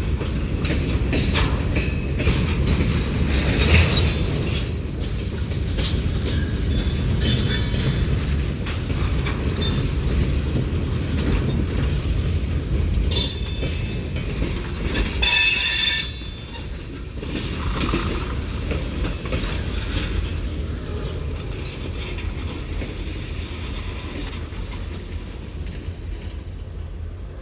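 Railroad cars rolling through a railyard: a steady low rumble of wheels on rail, with brief high-pitched metallic wheel squeals about halfway through.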